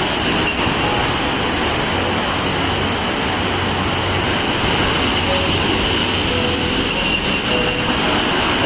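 Steady rushing of a large waterfall, an even wash of noise that holds level throughout.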